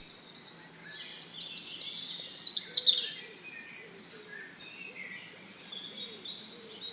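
Wild birds singing: a fast run of high chirping notes stepping down in pitch about a second in and lasting about two seconds, followed by fainter, scattered calls.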